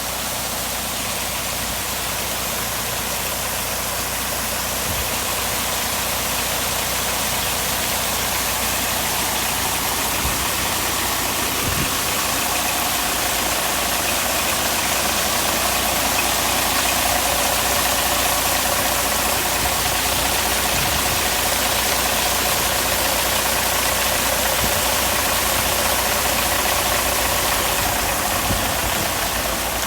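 Truck engine running steadily, growing a little louder partway through and easing slightly near the end.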